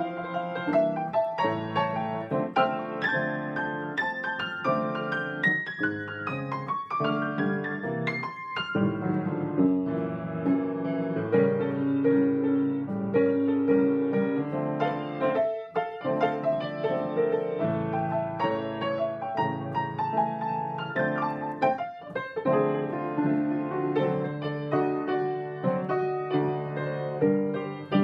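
Solo piano music.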